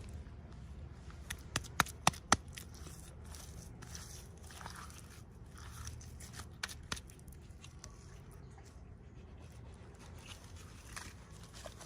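Toy packaging being handled and opened: light rustling and scattered sharp clicks, with a quick run of three louder clicks about two seconds in and two more a little before seven seconds.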